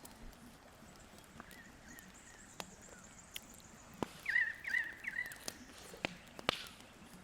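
A bird calling in three or four quick wavering notes about four seconds in, over faint outdoor background, with scattered sharp clicks and ticks.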